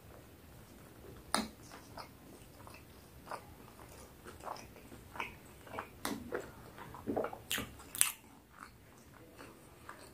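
A person chewing a mouthful of food close to the microphone: faint, irregular wet clicks and lip smacks, with a sharper click about a second and a half in and the strongest cluster near the end.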